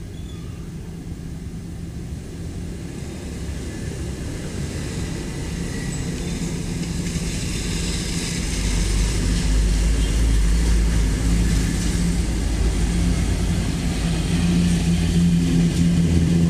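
Truck engine running, growing steadily louder, with a heavier low rumble setting in about halfway through.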